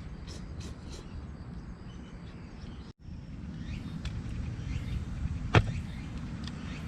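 Outdoor ambience: a steady low rumble with a few faint bird chirps early on, and one sharp click about five and a half seconds in.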